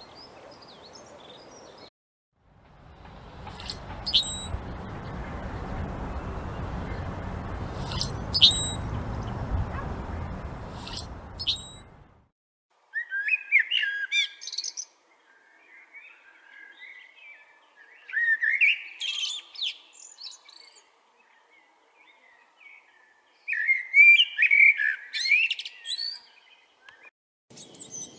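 Songbirds calling and singing. First a few sharp, high chirps over a steady rushing background noise, then, after a sudden cut, a bird sings three loud phrases of quick notes a few seconds apart, with softer calls between them.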